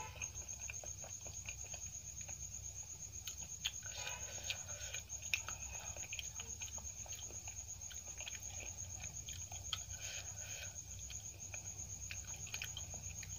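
Close-up mouth sounds of chewing a mouthful of potato curry and rice: many soft, wet clicks and smacks at an uneven pace.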